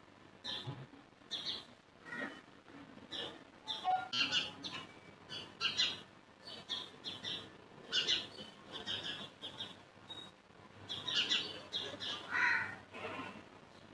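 Birds chirping and calling, many short irregular calls, some sliding down in pitch.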